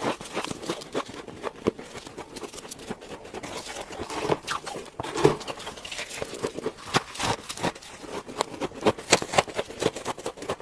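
Freezer frost ice being bitten and chewed close up: a dense, irregular run of sharp crunches and crackles.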